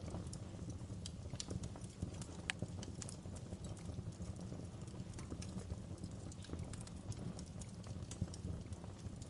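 Wood fire burning in a fireplace: a steady low rumble of flames with irregular sharp crackles and pops from the firewood, one sharper pop about two and a half seconds in.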